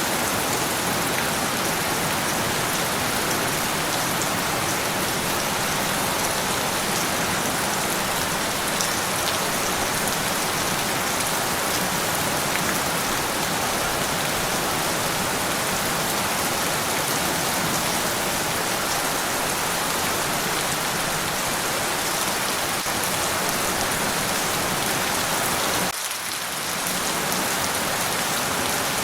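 Steady rain falling on a surface, an even hiss of many drops, briefly dropping in level near the end.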